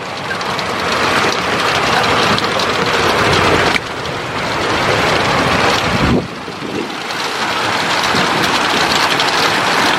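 Heavy thunderstorm rain pouring down with gusty wind buffeting the phone's microphone, a steady loud rush that drops suddenly about four and six seconds in before building again.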